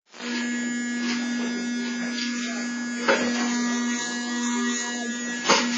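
Vacuum cleaner motor running with a steady buzz, with short knocks about three seconds in and near the end.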